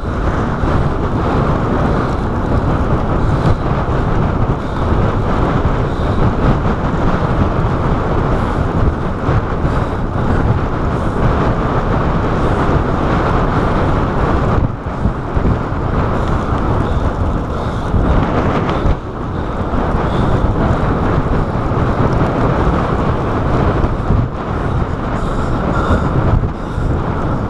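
Wind buffeting a chest-mounted GoPro's microphone while cycling at speed: a loud, steady rush that dips briefly twice around the middle.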